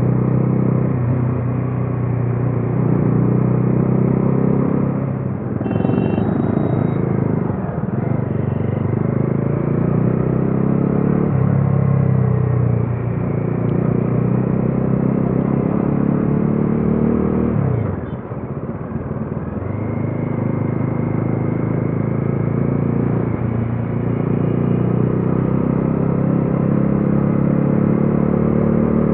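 Bajaj Dominar 400's single-cylinder engine and exhaust running under way. The engine note falls sharply about eighteen seconds in as the throttle closes, then picks up again.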